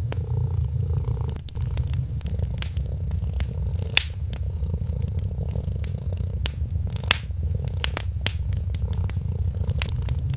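A cat purring steadily, with the crackle and pops of a fireplace fire over it; the sharpest pops come about four and seven seconds in.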